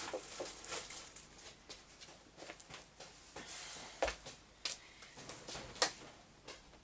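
Paper napkins and craft papers rustling as they are sorted through by hand, with a few light knocks about four to six seconds in.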